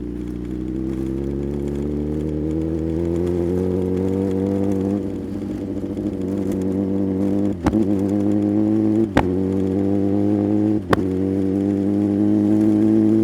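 Sport motorcycle engine pulling steadily up through the revs, broken by three brief sharp cuts about a second and a half apart, typical of quickshifter upshifts.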